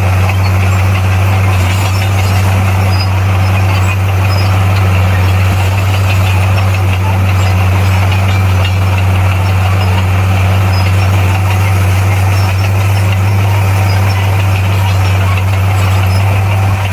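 Diesel engine of heavy earthmoving machinery running loudly at a steady speed, with a constant deep hum that does not rise or fall.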